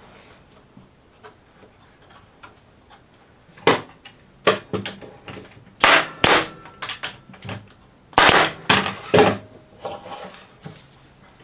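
Staple gun driving 1-inch staples into cedar fence-picket boards: a series of sharp shots that starts about four seconds in, some coming in quick clusters.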